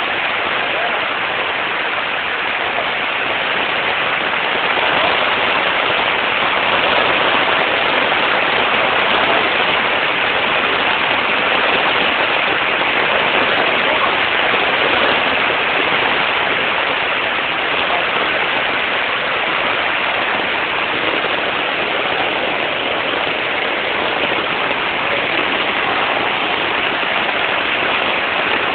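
Steady, loud rush of heavy rain together with floodwater pouring down a street like a waterfall.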